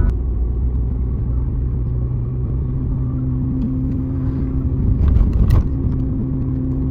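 A car running with a steady low rumble; a steady engine hum settles in about three seconds in, and a few short clicks come near the end.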